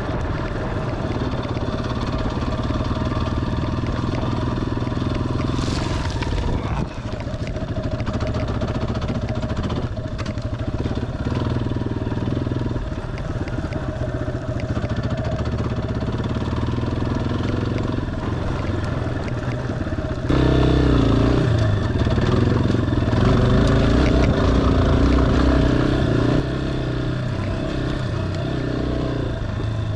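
Single-cylinder four-stroke engine of a Yamaha dual-sport motorcycle running under load off-road, its note rising and falling as the throttle is worked. About two-thirds through it gets louder for several seconds under harder throttle, then eases back.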